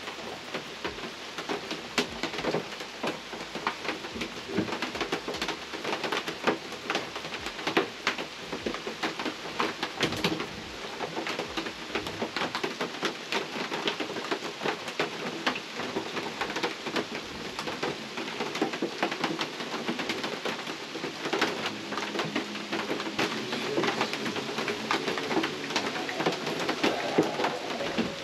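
Rain falling on the roof and walls of a hunting box blind: a steady, dense run of small drop ticks.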